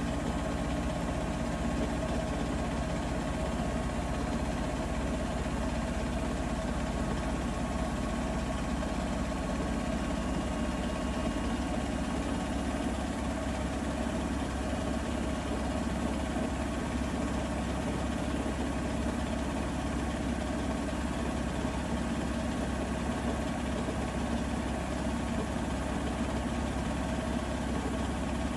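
Bosch Serie 4 washing machine running with a steady, unchanging hum and a few faint steady whine tones.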